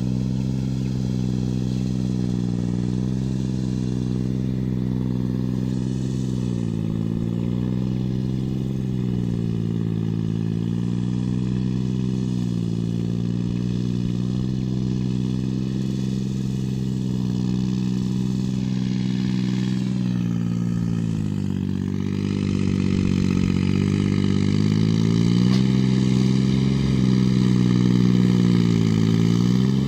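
Kubota 2202 tractor's diesel engine running at working speed under load, its pitch sagging and recovering every few seconds as the load comes and goes. It gets louder about two-thirds of the way through.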